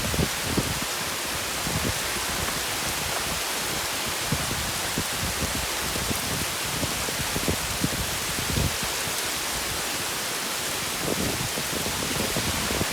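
Heavy tropical rain pouring down steadily, a dense even hiss, with scattered louder drops knocking close by.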